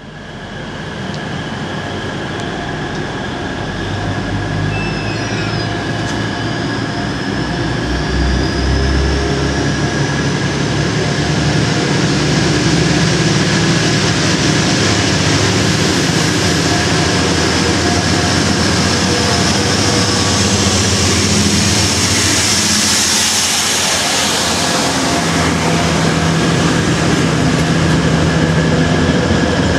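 Class 180 Adelante diesel multiple unit pulling away under power, its diesel engines running loud with a high whine that rises in pitch as the train gathers speed.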